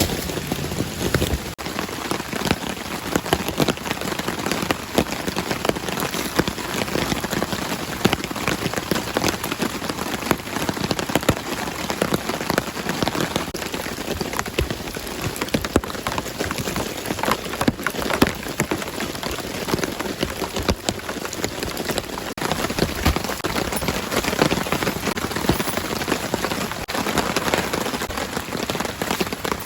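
Steady rain falling, a dense patter of countless drops hitting surfaces.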